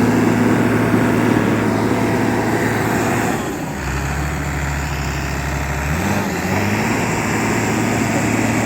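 Case 850K crawler dozer's diesel engine running under a working operator. About three and a half seconds in the engine note drops and holds lower, then climbs back up about six seconds in.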